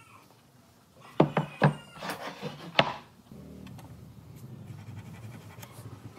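A few sharp knocks, four in under two seconds, then a low steady hum that sets in about three seconds in.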